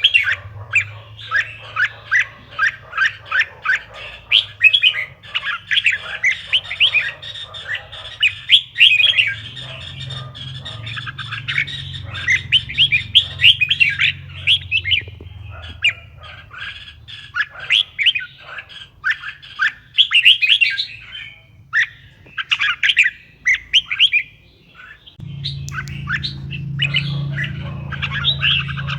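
Red-whiskered bulbul singing, a fast run of bright chirping, warbled notes in quick bursts with short pauses. A low steady hum runs underneath and grows louder near the end.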